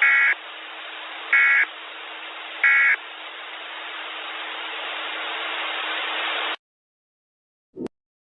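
Three short data-tone chirps about a second and a bit apart over steady radio hiss: the end-of-message bursts of a NOAA Weather Radio alert broadcast after a tornado warning. The hiss cuts off suddenly after about six and a half seconds, and a single short low click follows.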